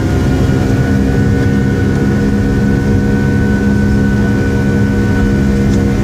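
Boeing 757-200 jet engines running steadily: a high steady whine over a dense low rumble.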